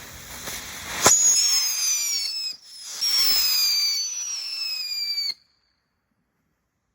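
Whistling fireworks: a sharp crack about a second in, then two long shrill whistles one after the other, each sliding slowly down in pitch. The second whistle cuts off suddenly.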